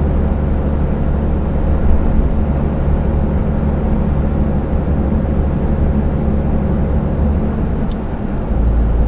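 Heavy truck's diesel engine and road noise heard from inside the cab while cruising on the motorway: a steady deep drone, its lowest tone shifting near the end.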